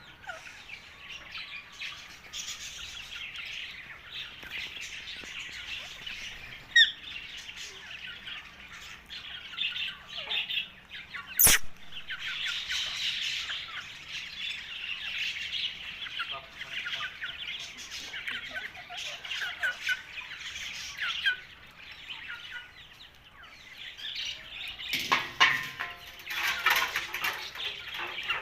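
Indian ringneck (rose-ringed) parakeet chattering with many short chirps and calls, louder and harsher near the end. A single sharp click about eleven seconds in.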